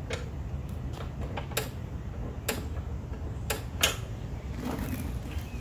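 Sharp, irregular clicks and knocks of a part being worked and pushed back into place by hand on a push mower, about six in a few seconds.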